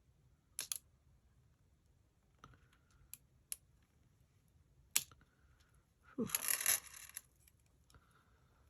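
Light, scattered clicks and taps of a small craft tool working over paper and sequins, with a brief scraping rustle about six seconds in.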